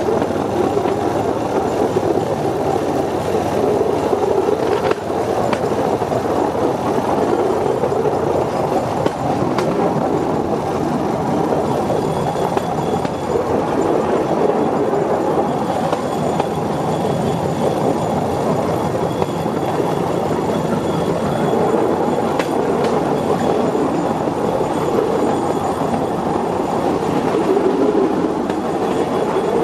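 Cambodian bamboo train (norry) running along the rails, a steady loud running noise of the platform and wheels on the track, broken by a few sharp knocks.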